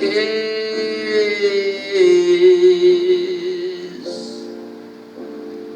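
A male vocalist sings a slow jazz ballad, holding long notes with vibrato over soft instrumental accompaniment. The voice drops out near the end, leaving quieter held accompaniment chords.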